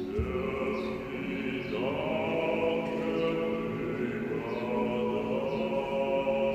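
A choir of young voices singing sustained, wordless chords that blend like an instrument. The voices slide up into a new held chord at the start and again about two seconds in.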